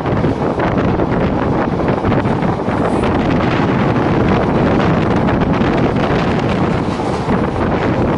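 Loud, steady wind rushing and buffeting over the microphone on a moving DEMU train, with the train's running noise underneath.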